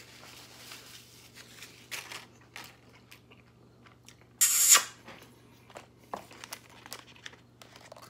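Close-up eating sounds: quiet chewing and soft crinkles of a burrito's paper-and-foil wrapper, in scattered small clicks. About halfway through comes one loud, hissy noise lasting about half a second.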